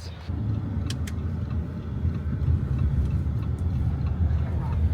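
Steady low rumble of a moving car, with two short clicks about a second in.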